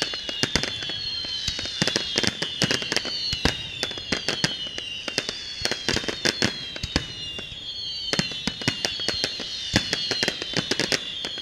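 Fireworks display: a rapid, irregular string of sharp bangs from bursting shells, over a high whistling that slides down in pitch and starts again every two to three seconds.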